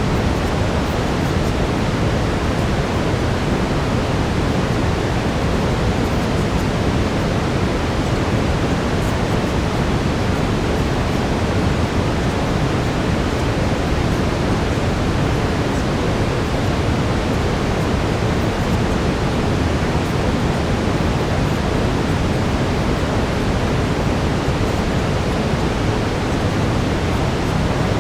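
Steady brown noise: an even, unbroken rush weighted toward the low end, with no changes or distinct events.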